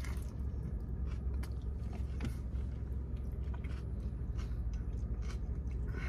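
Close-up chewing of a wet, juicy lettuce-wrapped protein-style burger: soft irregular mouth clicks and smacks, with a steady low hum underneath.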